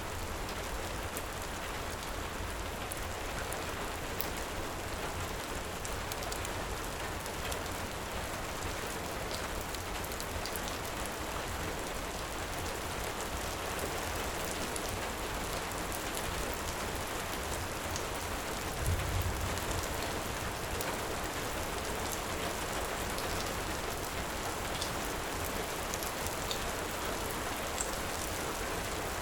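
Heavy rain falling steadily, with faint scattered crackles of a wood fire. A brief low thump comes about two-thirds of the way through.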